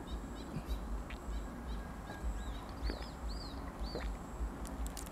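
A bird calling: a few short chirps early on, then a run of about four arched, whistled notes near the middle, over a low background rumble.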